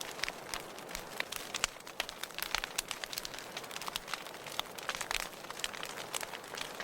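Wood fire in a fireplace crackling, with many irregular sharp pops and snaps over a soft hiss.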